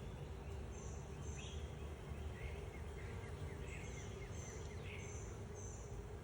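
Honey bees humming steadily around an open hive, with a small bird's short high chirps repeating in the background.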